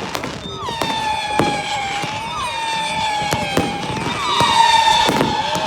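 Fireworks firing a run of long whistles, one after another and overlapping, with sharp bangs and cracks among them.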